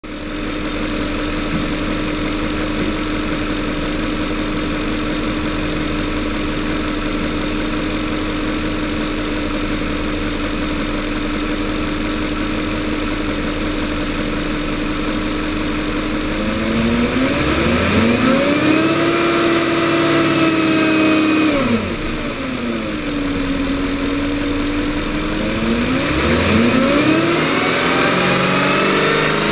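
Porsche Cayenne S 4.5-litre V8 (M48.00) running, idling steadily for just over half the time. It is then revved up and held at a higher speed for about five seconds before dropping back to idle, and near the end it is revved and held again.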